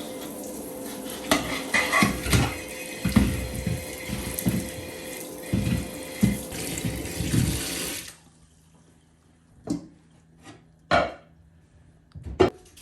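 Water running from a tap into a sink, with dishes and pots knocking, shut off about eight seconds in; a few separate clinks and knocks follow.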